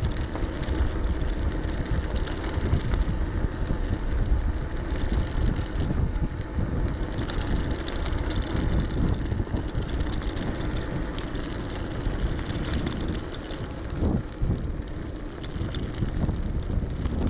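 Wind rushing over an action camera's microphone, with the low rumble of an electric bike's tyres on the path, steady throughout, with a few brief knocks about 14 seconds in.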